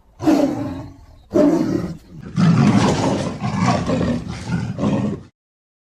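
Lion roar sound effects: two short roars, then a longer roar of about three seconds that rises and falls in pulses and cuts off abruptly near the end.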